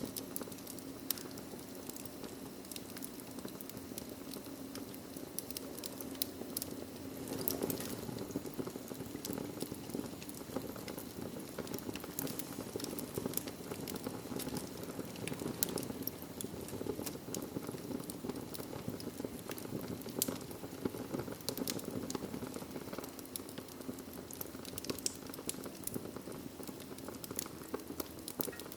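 Wood fire crackling in a fireplace: a steady low rush of burning with frequent, irregular sharp pops and snaps.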